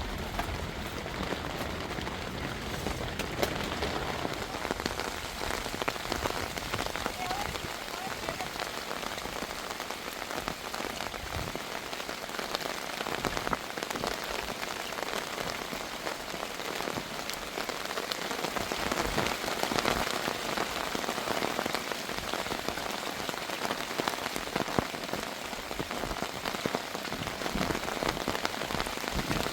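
Rain falling steadily, a dense hiss of many drops striking a surface.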